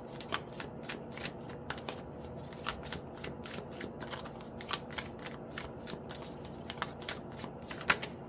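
A deck of oracle cards being shuffled by hand: a quick, irregular run of soft card flicks and snaps, with one sharper snap near the end.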